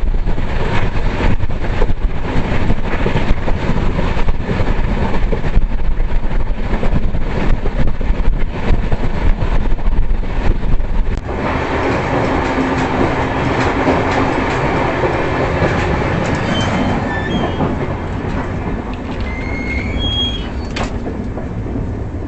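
Passenger express train running on the track: a steady rumble and clatter of wheels on rails. A little past halfway the sound changes suddenly, with less deep rumble, and faint high-pitched wheel squeals come in near the end.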